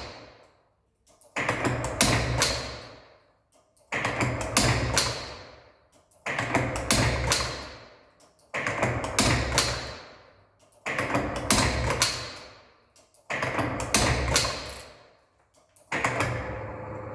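CNC tool turret indexing over and over on a test run. About every two and a half seconds it starts with sharp clicks and a clunk, then a mechanical noise that fades away, followed by a short quiet gap; seven cycles in all.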